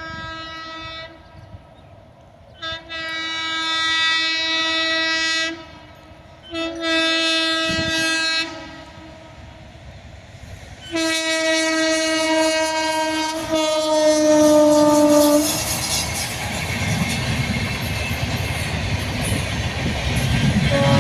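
Indian Railways locomotive horn sounding four blasts as the train approaches: a short one, then three longer ones, the last held about four seconds and dropping in pitch as the locomotive passes. Then the train rushes by with steady wheel-on-rail rumble and clatter.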